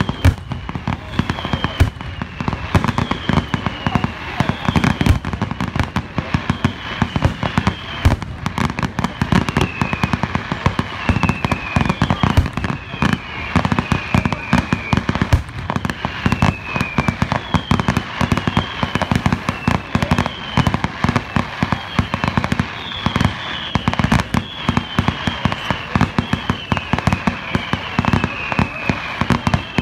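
Fireworks display: a rapid, continuous string of bangs and crackles, with short whistles falling in pitch one after another, about once a second.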